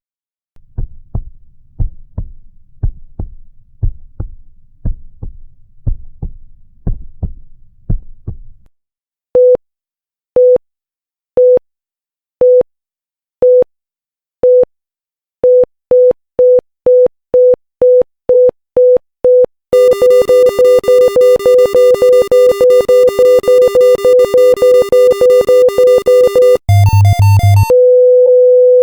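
Heartbeat sound effects: soft low heartbeat thumps about twice a second, then a heart-monitor beep that starts about once a second and speeds up into a rapid stream of beeps, ending near the end in one unbroken flatline tone.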